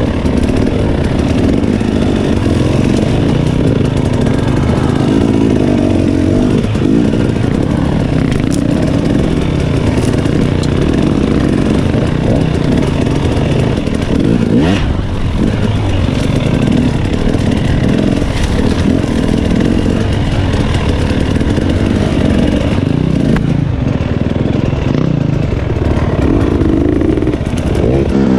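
Dirt bike engine running hard on a trail ride, its pitch rising and falling as the throttle is opened and shut.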